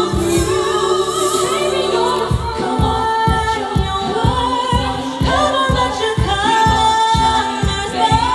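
Live a cappella vocal group singing in several-part harmony over a steady low beat of about two pulses a second.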